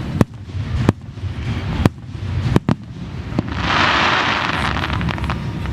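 Fireworks display: a string of sharp bangs about a second apart from bursting aerial shells, then a dense crackle lasting over a second, with a few last pops.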